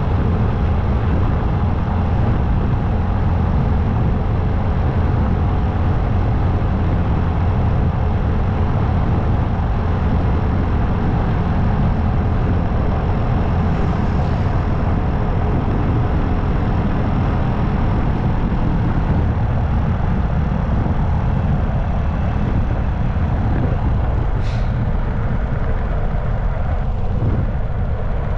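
Steady wind rush and road noise from a motorcycle at highway speed, with its engine running underneath. A short high hiss comes near the end.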